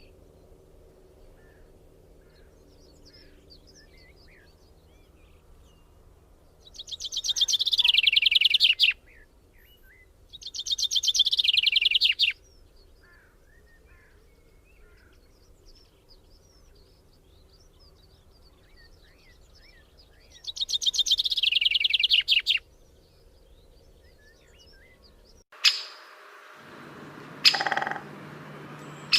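A small songbird singing three loud, fast trills, each about two seconds long and falling in pitch, with soft chirps in between. Near the end the background changes and two sharp knocks are heard.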